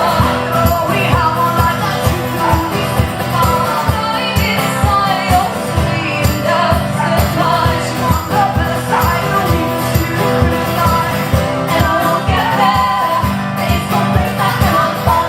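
Live band music with a steady beat and a wavering melodic line over it, with a jingling, tambourine-like percussion sound.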